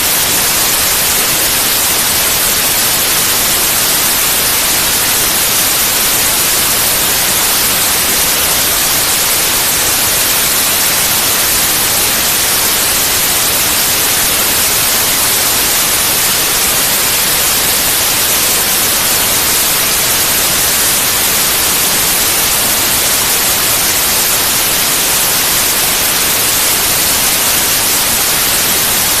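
Steady, unbroken white noise: an even hiss, brightest in the high end, that never changes.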